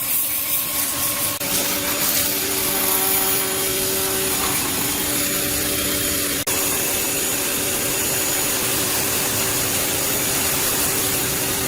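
A power tool running steadily with a harsh, hissing noise. It breaks off for an instant about six and a half seconds in, then carries on.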